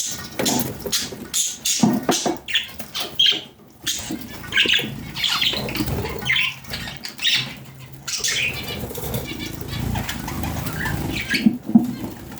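Budgies chirping and squawking in short, irregular calls, with wings flapping.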